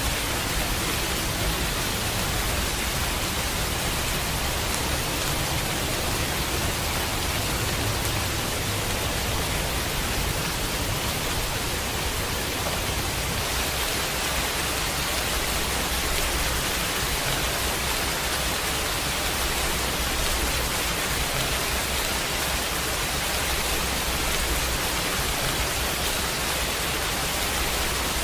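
Steady heavy rain falling, an even hiss with no breaks, with a low rumble underneath that swells and fades.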